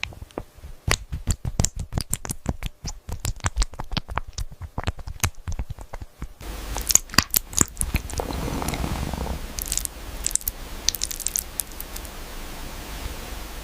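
A cat chewing and crunching food, a quick run of crisp crunches. About six seconds in the sound changes to a steadier background noise with fewer, scattered chewing clicks.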